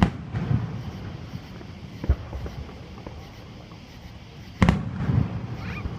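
Aerial firework shells bursting: a sharp bang right at the start, a smaller one about two seconds in and another loud one near the end, each followed by a low rolling rumble.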